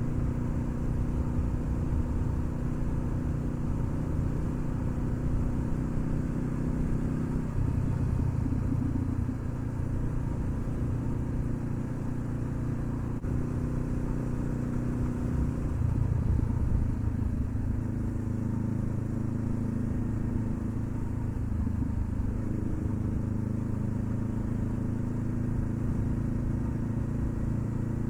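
Honda CB500F's parallel-twin engine running under way. The note steps in pitch and loudness about 8 seconds in and again around 16 seconds, where it is loudest.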